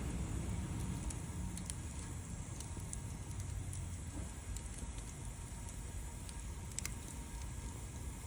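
Wood fire burning, crackling with scattered small pops over a low steady rumble; one sharper pop near the end.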